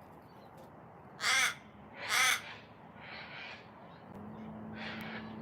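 A raven cawing: two loud harsh caws about a second apart, followed by three fainter calls. A faint steady low hum comes in near the end.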